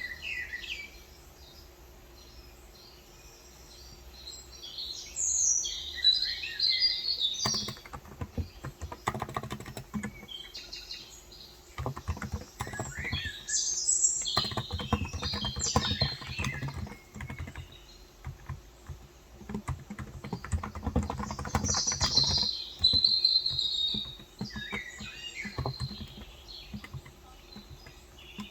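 Typing on a Cox Endeavour electro-capacitive (contactless) 35 g tenkeyless keyboard, in bursts of rapid keystrokes with short pauses, starting about a quarter of the way in. Small birds chirp throughout.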